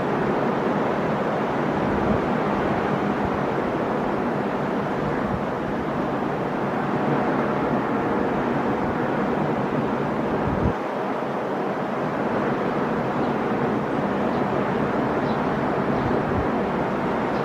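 Sea surf: waves breaking and washing on the shore in a steady, continuous rush.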